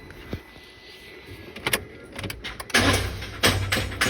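Rapid, evenly spaced clicking, about three or four clicks a second, starts near three seconds in. It comes from the starter circuit of a Peugeot 207 1.6 as the key is turned to crank. The engine does not turn over: a no-crank fault in the starter relay circuit (code P0616).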